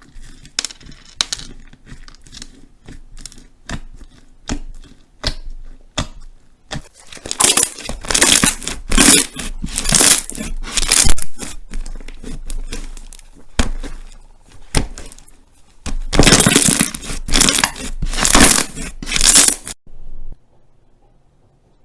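Crunchy slime being squeezed and pressed by hand, crackling and popping: scattered clicks at first, then two long runs of loud, dense crackling, stopping near the end.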